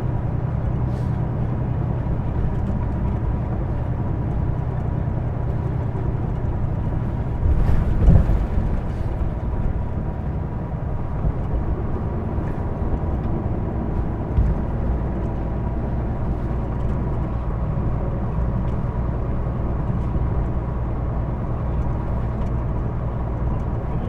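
Hino Blue Ribbon II (PJ-KV234L1) route bus heard from inside while under way: diesel engine running steadily with road noise, and a brief bump about eight seconds in. The bus's running sound is one the rider calls abnormal.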